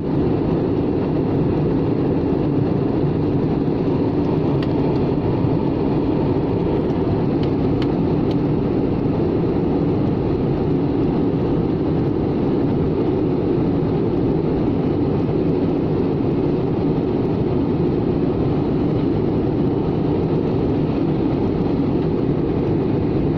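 Steady roar of a jet airliner in flight during its approach to landing, a constant even rush of engine and airflow noise with a few faint ticks between about four and eight seconds in.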